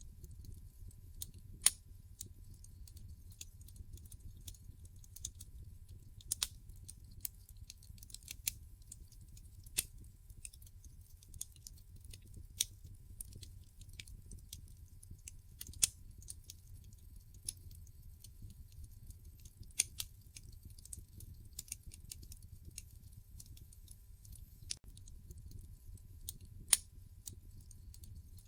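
Wood fire in a fireplace crackling: irregular sharp pops and snaps from the burning logs, a louder one every few seconds with fainter crackles between, over a low steady rumble of the flames.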